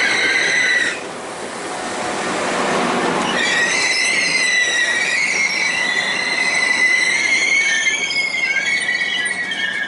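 A passing train's wheels squealing steadily at several high pitches over the sound of rolling wheels. The squeal stops about a second in, leaving only the rolling, then comes back about three and a half seconds in.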